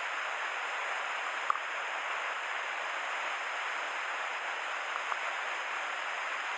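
Steady rush of falling water from a mountain waterfall. A single sharp click comes about one and a half seconds in.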